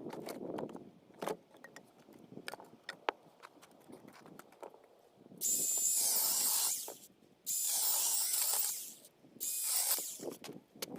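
Scattered knocks and clatter, then three loud hissing bursts from a power tool, each about a second long, switched on and off with short quiet gaps.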